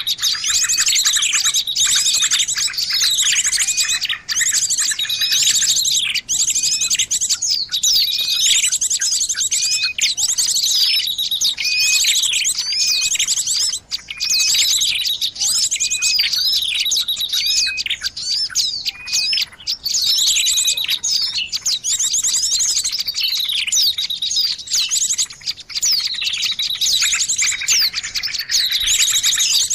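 Small-bird lure recording: dense, high twittering and chirping with quick rising and falling notes, in phrases that repeat about every two seconds without a break.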